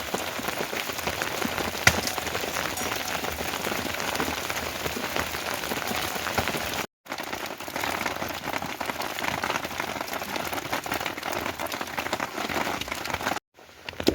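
Steady rain falling, a dense patter of drops, with one sharper tap about two seconds in. The sound cuts out for a moment about halfway and again near the end.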